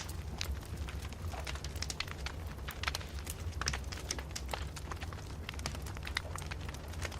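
Wood fire crackling: irregular sharp pops and snaps several times a second over a steady low rumble of the flames.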